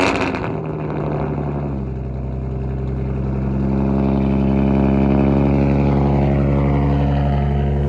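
Nissan 350Z's 3.5-litre V6 running at a steady idle moments after being jump-started, having sat unstarted for over 100 days. The engine note gets louder a few seconds in, and a higher whine slides down in pitch near the end.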